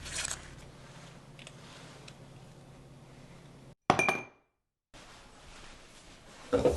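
Kitchen baking sounds with glass clinks: a sharp clink with a brief ringing tone about four seconds in, and another knock near the end.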